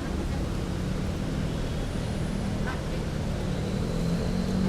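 Street traffic, with a vehicle engine running steadily close by as a low, even hum.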